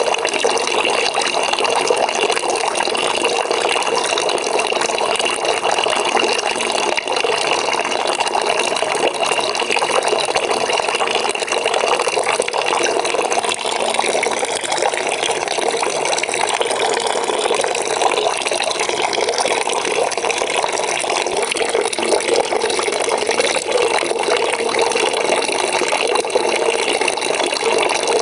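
Water from a tap running steadily into a bucket, with an even, unbroken splashing.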